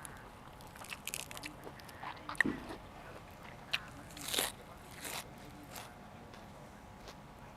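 Close-up biting and chewing of crunchy raw vegetables: irregular crisp crunches and clicks, the loudest crunch about four seconds in.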